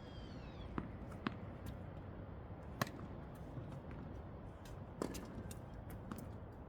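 Tennis balls being struck by rackets and bouncing on the court during a hitting drill: sharp pops a second or more apart, the clearest about three and five seconds in, over steady background noise.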